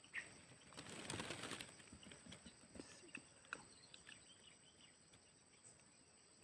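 Faint wild bird sounds: scattered short chirps, with a brief rustle about a second in, over a steady thin high whine.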